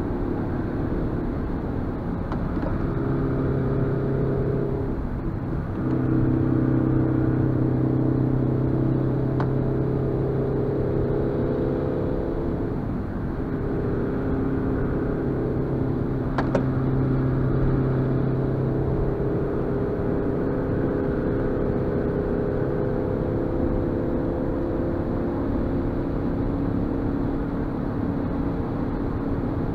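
Suzuki Swift Sport's 1.6-litre four-cylinder engine pulling uphill, heard from inside the cabin with tyre and road noise. Its steady note dips and picks up again about five and thirteen seconds in, and there is a light click about sixteen seconds in.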